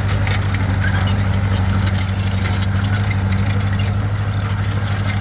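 Heavy construction machine's engine running at a steady pitch and load, with frequent metallic clicks and clanks over the hum.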